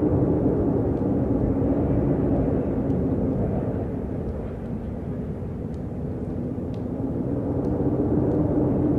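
Wind blowing in gusts with a low moaning note, easing off around the middle and picking up again near the end.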